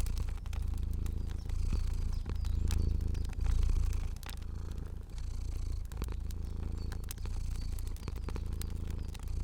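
Domestic cat purring steadily, a low rumble that swells and eases about every second and a half, with a fire's scattered sharp crackles over it.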